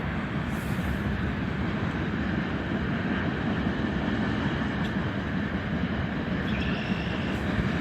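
A CN freight train rolling past at speed: a steady rumble of wheels on the rails, with a few faint clicks.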